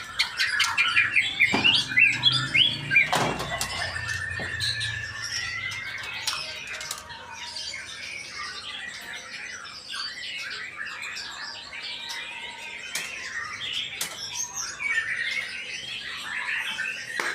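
Male white-rumped shama (murai batu) singing a long, varied run of quick whistles, chirps and clicking trills, loudest in the first few seconds.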